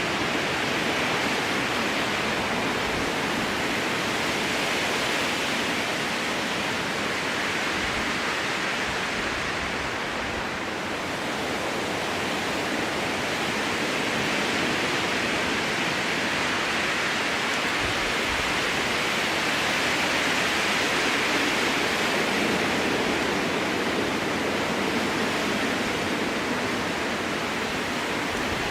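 Strong wind blowing through spruce trees, a steady rushing noise that swells and eases slightly, dipping briefly about ten seconds in.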